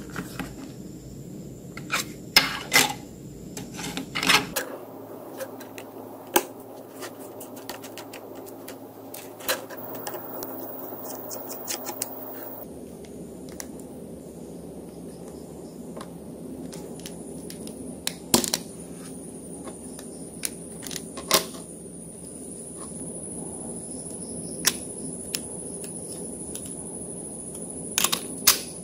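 Small tools and phone parts clicking and clinking against a hard work surface in scattered sharp taps, over a steady low background noise.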